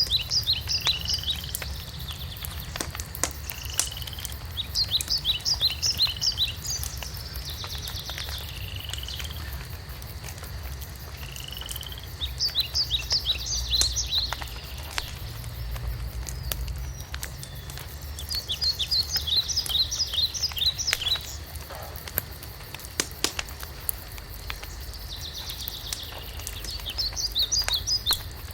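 Wood fire crackling with scattered sharp pops, while a songbird repeats a short song of quick high notes about every six to seven seconds, five times.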